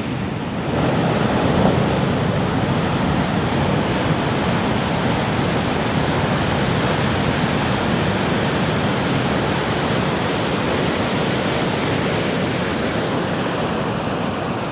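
Steady rushing noise of sea and wind, even and unbroken, growing a little louder about a second in.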